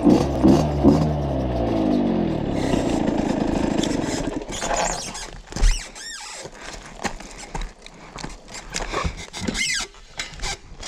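Valenti RME 50cc two-stroke dirt-bike engine running, its pitch rising and falling. It drops away about four seconds in, leaving scattered clicks and a few short high squeaks.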